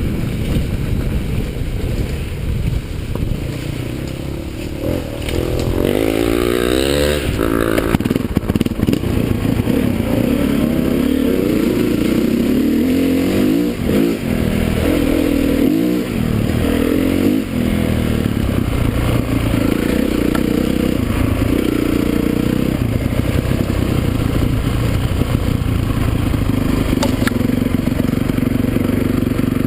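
Motocross motorcycle engines running hard, their pitch rising and falling as the throttle is opened and closed. There is a quick run of revving about six to eight seconds in.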